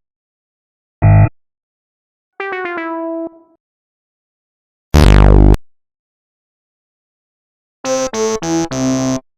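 A run of separate electronic wrong-answer / fail sound effects with gaps between them: a short harsh buzzer, a few synth notes stepping down, a loud buzzer with a falling sweep, then four quick notes stepping down in pitch like a game-over jingle.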